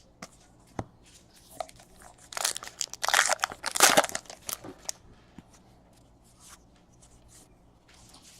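A trading-card pack's wrapper being torn open and crinkled: a few light clicks, then about two and a half seconds of loud crackling starting a little over two seconds in.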